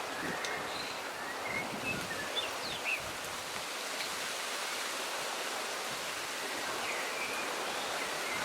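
Steady rain falling on a garden, an even hiss, with small birds giving short chirps here and there.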